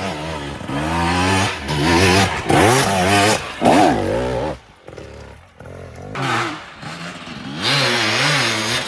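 KTM 300 XC-W's single-cylinder two-stroke dirt bike engine revving up and down under changing throttle on a trail ride. It drops off for a moment about halfway through, then picks up again.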